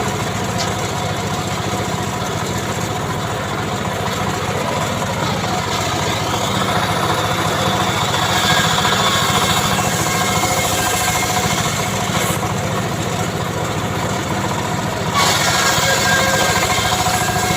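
Homemade chainsaw engine running steadily, getting a little louder in the second half.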